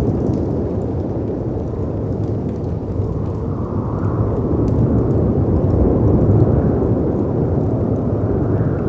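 Layered storm ambience: a deep, steady rumble of howling wind and crashing sea waves that swells a little about halfway through and again a second or two later. Faint fireplace crackles pop over it.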